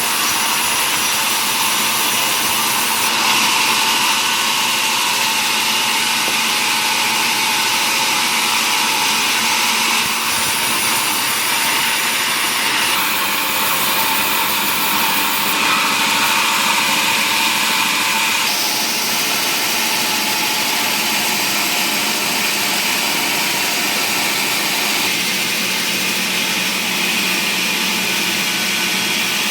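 Woodworking machine running steadily as it works wood, a continuous high whirring hiss that shifts abruptly in tone several times.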